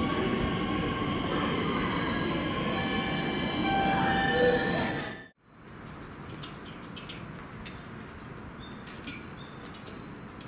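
Doctor Yellow (Shinkansen 923 series inspection train) running through a station: a steady rail rumble with several high whining tones, cut off sharply about five seconds in. It is followed by a much quieter background with scattered sharp ticks.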